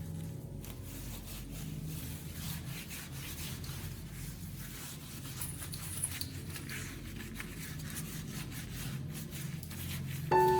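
Faint, irregular rubbing and scraping over a low steady hum, as of something being scrubbed by hand. Piano music comes back in near the end.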